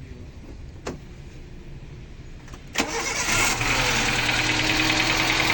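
Suzuki Cultus EFI engine being started: a click about a second in, then the engine catches suddenly near three seconds and runs at idle. It is misfiring and running rough, a fault caused by a loose fuel-injector plug.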